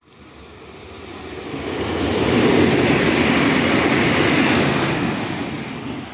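Electric multiple unit ETR 104.104 passing through at speed on wet track: a rushing noise of wheels on rail and displaced air that builds for about two seconds, holds loud, then fades away near the end.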